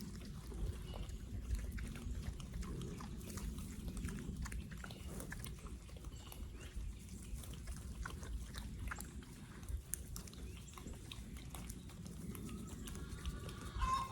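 A pig rooting and feeding in brush and vines: occasional soft grunts over rustling, chewing and small snaps of vegetation.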